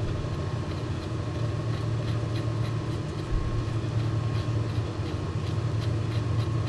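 Old Monarch engine lathe running steadily with a low hum and a thin steady whine, with faint light ticking throughout, during a thread-fit check with a test nut.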